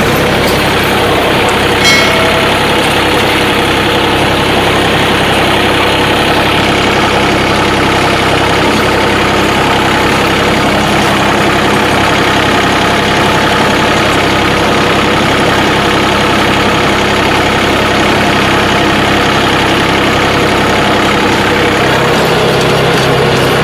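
John Deere 3036 compact tractor's three-cylinder diesel engine running steadily. There is a short sharp click about two seconds in, and a lower hum joins near the end.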